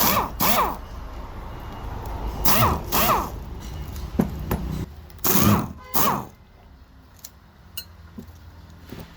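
A small power tool run in short bursts, in three pairs, each with a whine that sweeps up and down in pitch, followed by a few faint clicks.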